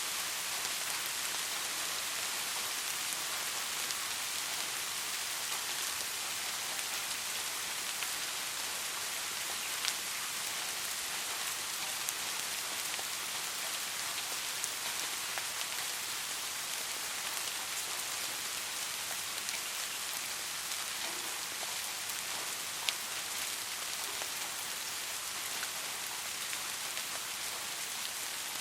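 Steady soft rain falling, an even hiss with a few sharper single drops standing out now and then.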